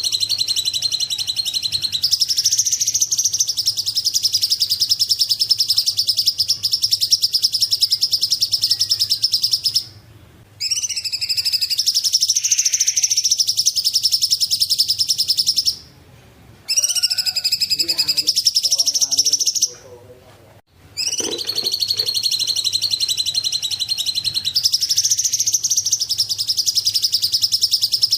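Cungkok bird song: a rapid, high, chattering trill held for several seconds at a time, breaking off briefly about ten, sixteen and twenty seconds in before starting again.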